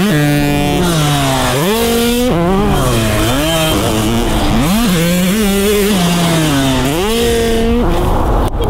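Dirt bike engine running hard. Its pitch climbs steeply and then drops sharply, about four times, as the rider accelerates, shifts and rolls off the throttle.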